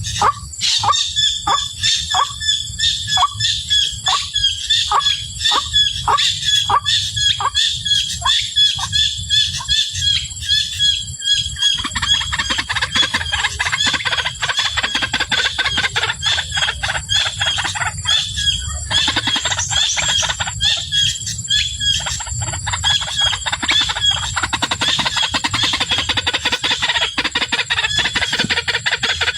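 White-breasted waterhens calling: a steady run of short falling notes, about two a second, for roughly the first twelve seconds, then a denser, higher chatter of clucking calls.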